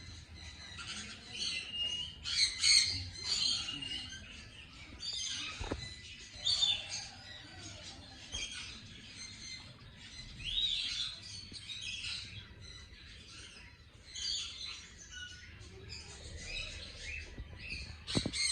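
Many birds chirping at once, a dense chorus of short, overlapping high-pitched calls.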